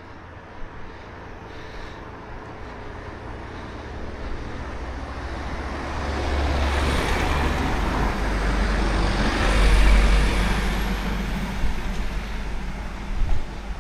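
A motor vehicle approaching and passing on the road, growing louder to a peak about ten seconds in, then fading, over low rumble.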